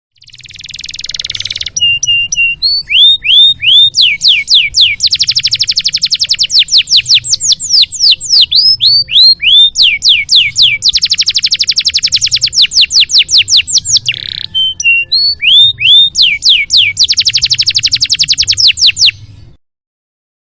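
Domestic canary singing one long, loud song of fast rattling trills and runs of repeated down-slurred whistles, opening with a short hissy burst and stopping abruptly near the end.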